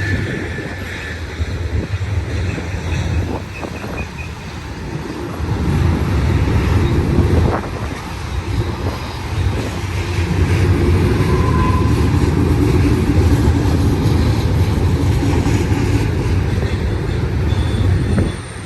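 Westbound BNSF double-stack intermodal freight train rolling past, its cars rumbling on the rails, growing louder about five seconds in and staying strong.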